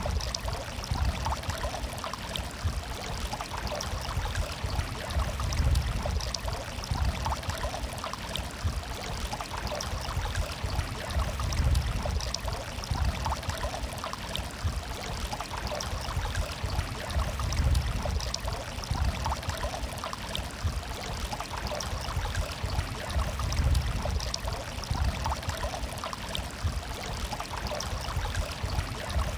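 Water murmuring and flowing steadily over stones, with a deeper rush that swells and eases about every six seconds.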